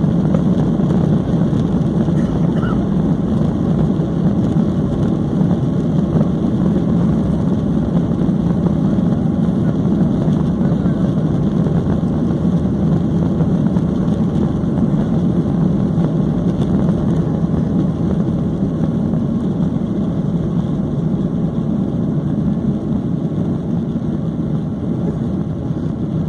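Boeing 737-800 jet engines running at takeoff power: a loud, steady, low roar that eases slightly toward the end.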